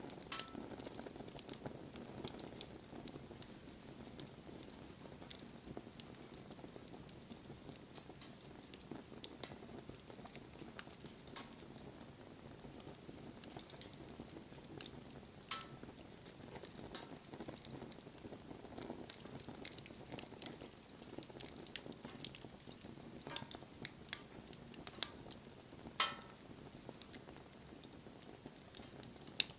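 Wood fire crackling: irregular sharp pops and snaps over a soft steady rush of flames, with louder pops near the start, about 26 seconds in, and at the very end.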